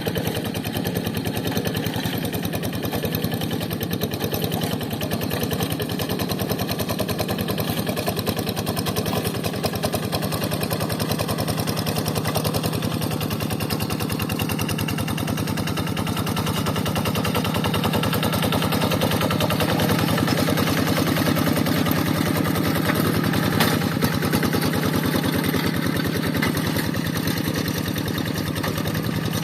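Quick Zeva G3000 hand tractor's Kubota diesel engine running steadily with rapid, even firing pulses; it grows somewhat louder a little past the halfway point, then eases back.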